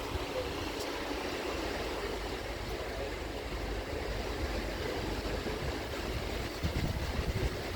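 Steady rushing water with low wind buffeting on the microphone, on a river paddle boat.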